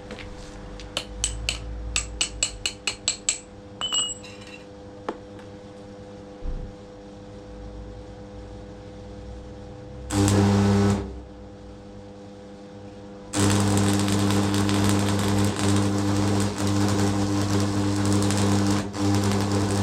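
Restored DeWalt power hammer test-run: after a series of sharp clicks, it runs in a one-second burst, then starts again and runs steadily with a loud buzzing hammer action.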